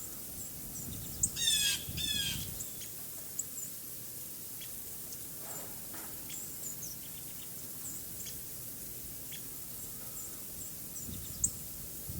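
Blue jay giving two harsh, buzzy warning calls about a second in, an alarm at a nearby hawk, over scattered faint high chips from small songbirds.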